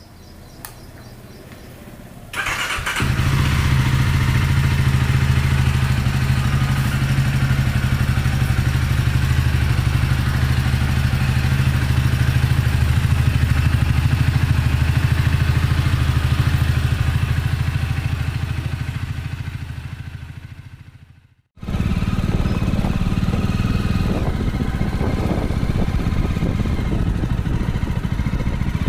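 Jawa 300 motorcycle's single-cylinder engine starting about two seconds in, then idling with a steady, even exhaust beat. The sound fades out around twenty seconds in and then cuts back in abruptly, running at the same steady idle.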